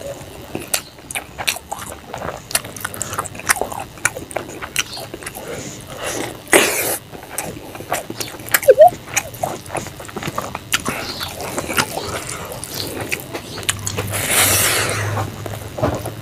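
Close-up eating sounds: wet chewing and lip-smacking of rice and pangas fish curry eaten by hand, with many small mouth clicks. A longer rushing sound comes near the end.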